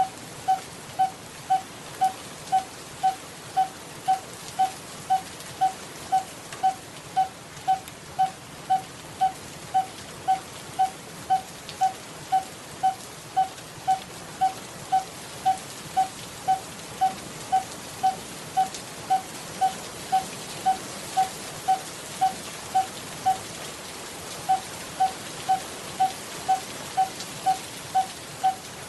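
Coppersmith barbet calling its hollow 'tuk' note over and over, about twice a second, breaking off briefly about three quarters of the way through before resuming. Behind it is a steady hiss.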